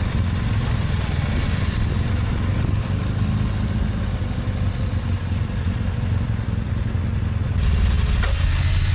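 Motorcycle engine running steadily, its tone shifting about seven and a half seconds in.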